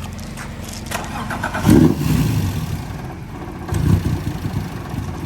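Car engine running, with two louder surges, one a little under two seconds in and one about four seconds in.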